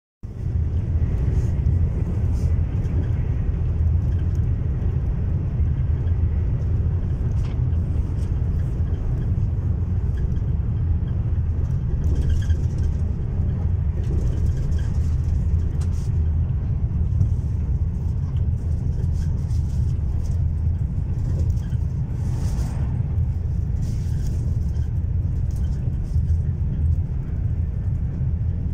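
Passenger train running steadily at speed, heard from inside the carriage as a continuous deep rumble.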